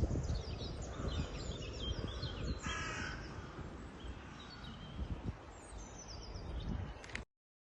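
A crow gives one harsh caw about three seconds in, over high, quick chirps of small songbirds, with a steady low rumble beneath. The sound cuts off abruptly near the end.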